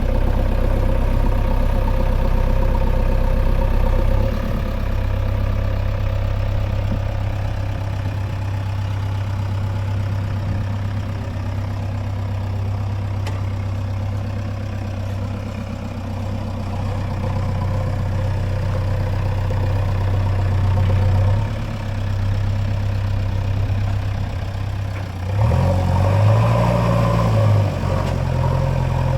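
A heavy diesel engine runs steadily at a low, even hum. Near the end it revs up, its note rising and falling over a couple of seconds, then holding at a slightly higher pitch.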